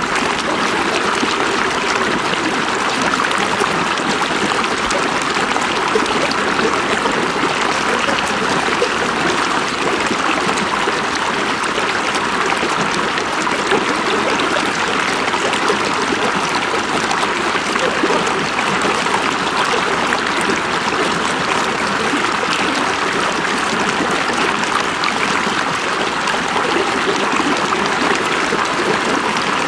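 River water flowing and babbling over rocks, a steady continuous rush with no breaks.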